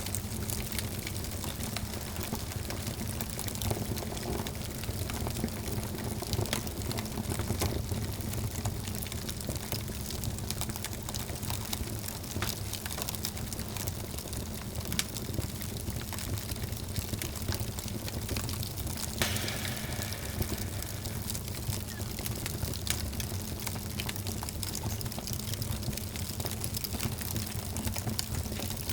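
Wood fire burning in a fireplace: steady crackling with many small pops over a low rumble, and one sharper pop about two-thirds of the way through.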